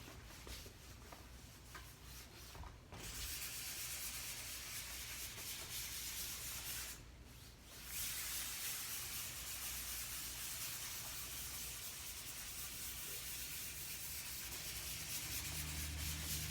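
Hand wet sanding of primer on a fabric surface with 320-grit wet/dry paper on a sanding block: a steady rubbing hiss of back-and-forth strokes. It starts in earnest about three seconds in and pauses briefly about seven seconds in.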